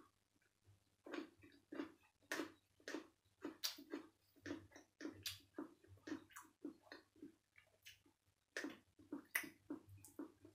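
Close-up chewing and wet lip-smacking, a quick run of short smacks two to three a second, with a brief pause a little after the middle before it starts again.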